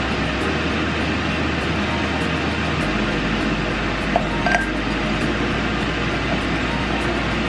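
Steady running noise of a moving vehicle, an even rumble and hiss, with a small click and a short faint beep about four and a half seconds in.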